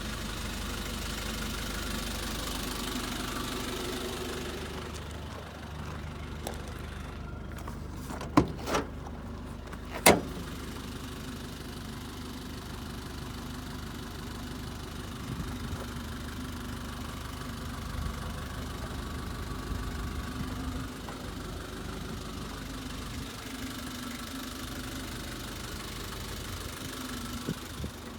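Nissan Caravan's QD32 3.2-litre four-cylinder diesel engine idling steadily. Three sharp knocks sound about eight to ten seconds in.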